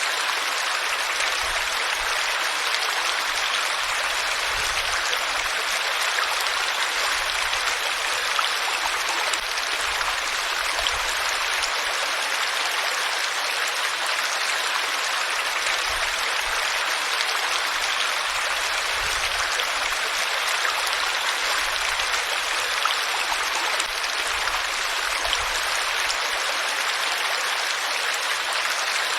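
Flowing water: a steady, even rush of a stream or small cascade.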